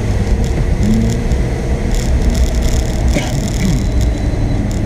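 Car running on a wet track, heard from inside the cabin: a steady engine and road rumble, with short patches of hiss coming and going.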